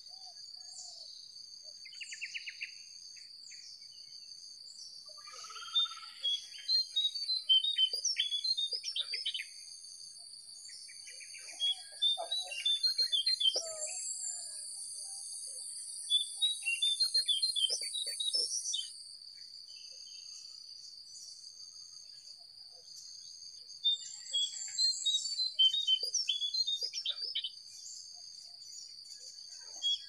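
Small songbirds singing in bursts of rapid chirping notes, four phrases a few seconds long with pauses between, over a steady high-pitched insect drone. A second, hissing insect buzz swells from a few seconds in and cuts off suddenly about two-thirds of the way through.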